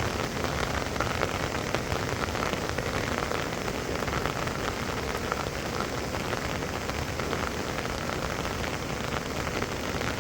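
Heavy rain falling steadily: a dense, even hiss of countless small drop impacts.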